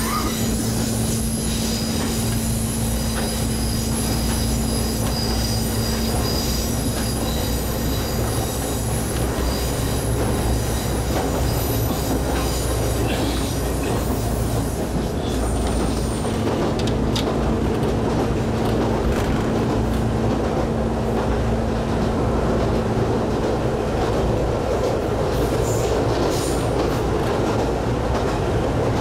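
Inside a running Ichibata Electric Railway 5000 series electric train (ex-Keio 5000 series): steady rumble of wheels on rail with a constant hum, and high-pitched ringing tones over it that fade out about halfway through.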